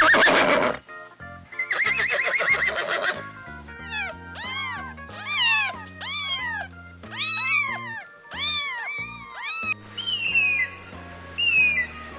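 A string of different animal calls over background music: a short loud call at the start, a trembling call a couple of seconds later, then a run of rising-and-falling calls, and short high falling chirps near the end.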